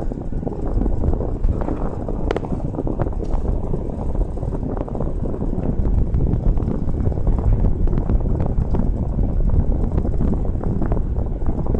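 A running old car: a steady low rumble with scattered light clicks.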